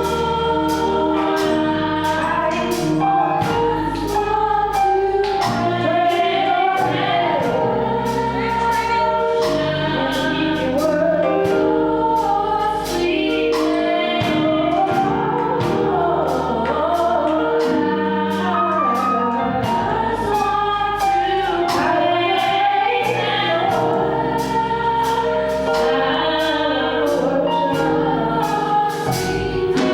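Gospel choir singing with a band behind it: sustained voices over bass notes and a steady beat.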